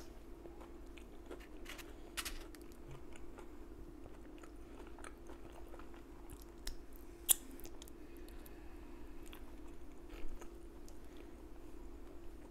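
A person chewing food with their mouth closed: soft wet clicks and small crunches, with one sharper click about seven seconds in.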